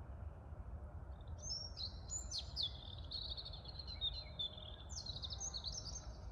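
A songbird singing a quick string of high chirps and trills, starting about a second in, over a steady low rumble of wind and city noise.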